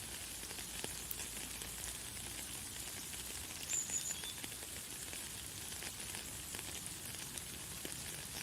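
Light, fine rain falling steadily as a soft hiss of many small drop ticks. About four seconds in, a bird gives a brief high chirp.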